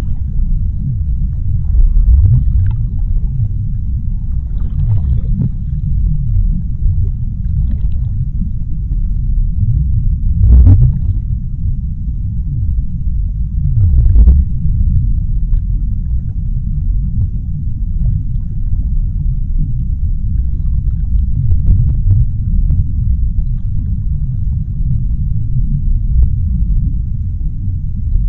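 Underwater sea ambience: a steady deep rumble, with faint crackles scattered over it and two louder surges about ten and fourteen seconds in.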